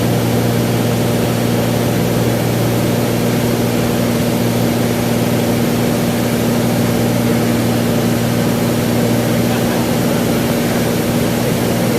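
Cessna 182's piston engine and propeller droning steadily in flight, with a constant low hum and a wide rush of noise and no change in pitch.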